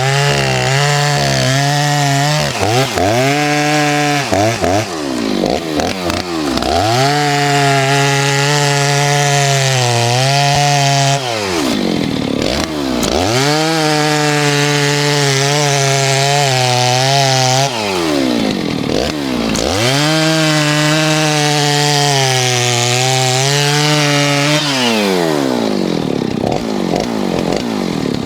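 Stihl 039 two-stroke chainsaw bucking a log, run at full throttle through the cuts. Its pitch sags and recovers about four times, then drops back as the throttle is released near the end.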